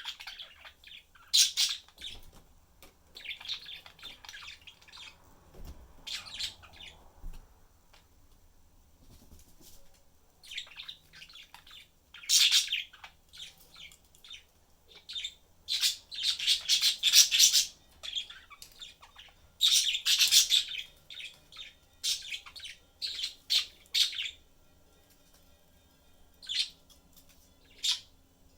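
Budgerigars chirping and chattering in bursts, with a few louder squawks.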